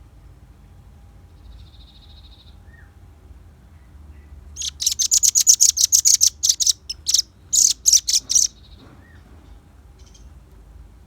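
Velvet-fronted nuthatch calling: a rapid run of sharp, high chipping notes, about five a second, starting about four seconds in and lasting some four seconds with one short break. A fainter short trill comes earlier.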